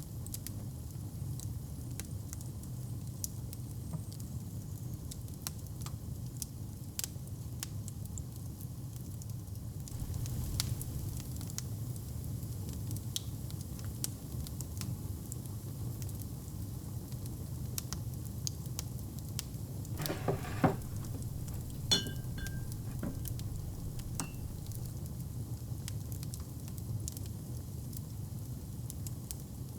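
Wood fire crackling in a hearth: a steady low rumble with scattered sharp pops and snaps. About two-thirds of the way through come two louder clinks with a brief ringing tone.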